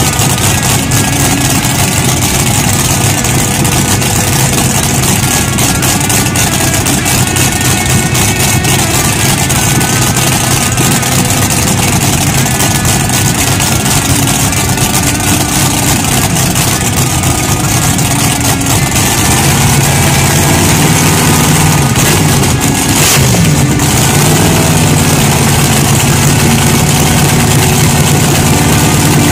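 Methanol-injected 502 cubic-inch (8.2 L) big-block Chevrolet V8 of a front-engine dragster, running steadily and loudly at idle. About two-thirds of the way through it gets a little louder, and shortly after its pitch briefly dips and comes back up.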